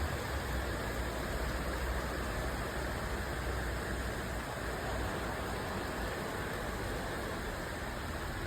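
Heavy rain pouring down in a steady hiss, hitting the ground hard enough to bounce, with a low rumble under it for the first half.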